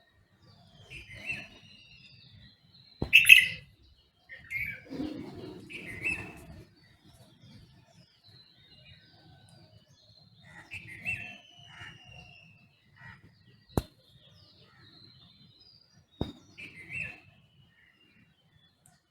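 Wild songbirds giving short chirps and calls in scattered groups, with quieter pauses between. Three sharp clicks stand out, the first and loudest about three seconds in and two more near the end.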